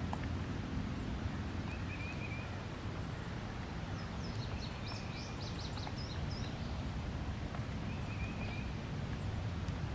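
Birds calling over a steady low rumble: a short chirp repeated every few seconds, and a quick run of high, falling notes about four seconds in.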